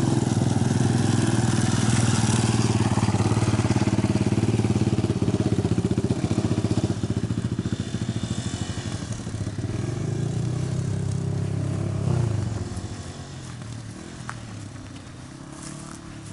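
Dirt bike engine running close by at low speed, then fading as the bike moves away. It comes back louder about ten seconds in and drops off again about two seconds later.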